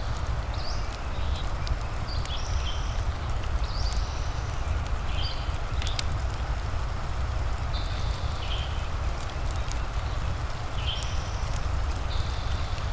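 Steady ambience of a crackling fire with a rain-like hiss and low rumble, sharp crackle pops scattered through it. Over it, short high chirps repeat about once a second.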